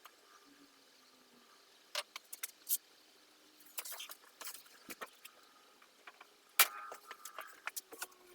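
Parts and tools being handled on a workbench: a series of irregular sharp clicks and light metallic clinks, the loudest a single knock about two thirds of the way in.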